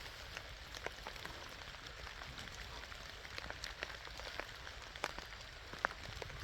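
Steady rain falling, with many scattered sharp ticks of single drops hitting close by; two of them stand out about five and six seconds in.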